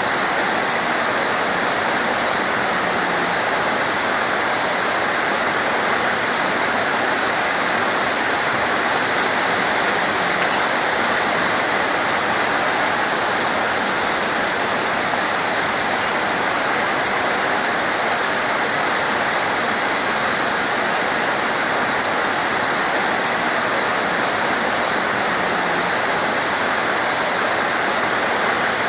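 Heavy, torrential rain pouring down in a steady, dense hiss with no letup.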